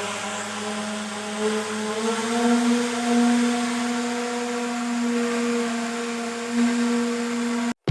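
Small electric DC motor of a homemade mini speed boat running at speed with a steady whine. The pitch rises a little about two seconds in, then holds until it cuts off suddenly near the end.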